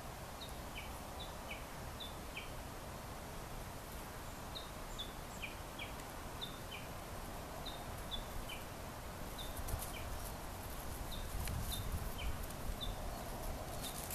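A small bird calling: short high chirps in twos and threes, repeating about once a second over steady outdoor background noise. A low rumble rises near the end.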